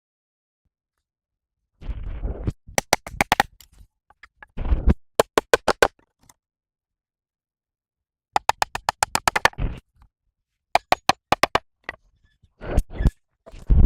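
Bursts of rapid sharp knocks, roughly ten a second, mixed with short scraping sounds and broken by stretches of dead silence.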